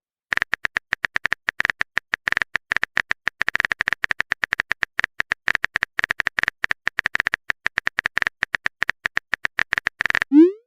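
Keyboard typing sound effect: a fast, irregular run of short clicks, several a second. It starts just after the beginning and stops shortly before the end.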